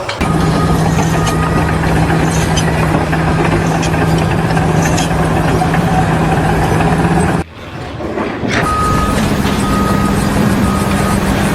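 Heavy truck or construction vehicle running, with its reversing alarm giving short, evenly spaced beeps. The sound drops out briefly after about seven seconds, then resumes.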